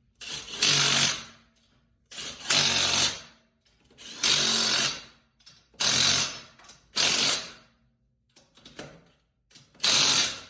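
Impact wrench running in about six short bursts of roughly a second each, with brief pauses between, as wheel lug nuts are driven.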